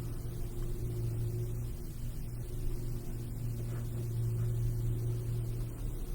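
Steady low background hum with no sudden sounds.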